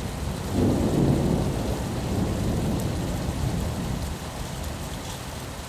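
Steady rain with a low rumble of thunder that swells about half a second in and slowly fades away.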